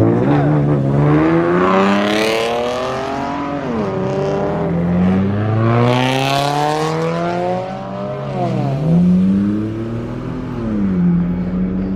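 Car engine accelerating hard, its pitch climbing and then dropping sharply three times as it pulls through the gears.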